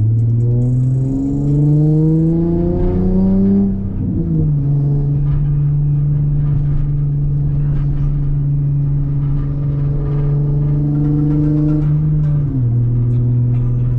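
Nissan VQ37VHR V6 running through a custom titanium single-exit exhaust with a titanium Y-pipe and ART cats, heard from a car on the move. The engine pitch climbs under acceleration, drops at an upshift about four seconds in, then holds at a steady cruise.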